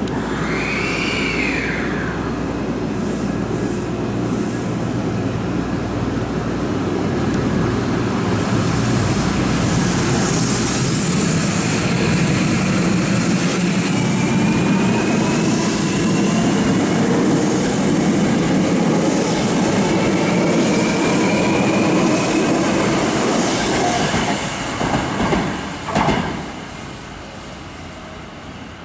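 Hankyu electric train running along elevated track: a steady rumble of wheels on rail with a faint whine. A few knocks come near the end, then the sound drops away as the train moves off.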